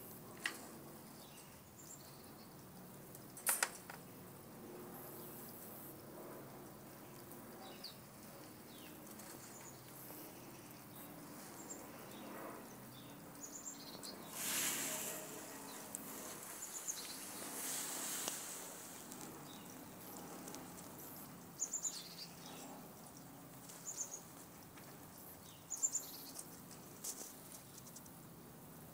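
Quiet outdoor background with small birds chirping now and then, short high calls scattered throughout. A few sharp clicks and two brief spells of rustling about halfway through stand out above it.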